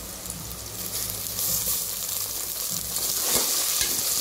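Sliced onions sizzling in hot oil in a pressure cooker pot. About a second in the sizzle grows louder as fresh coriander and mint leaves go in, and a steel ladle stirs and scrapes the pot near the end.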